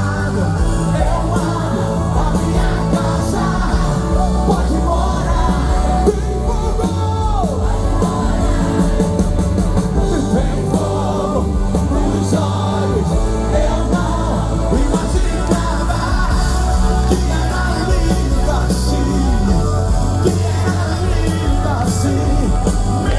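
Live gospel band playing with a lead singer, loud bass and drums under sung lines.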